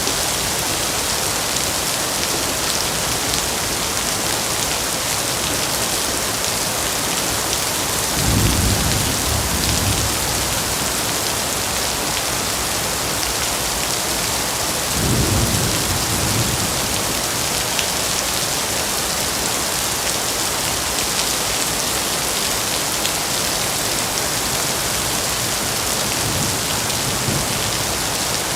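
Steady heavy rain hissing, with low thunder rumbling twice, about 8 and 15 seconds in, and once more faintly near the end.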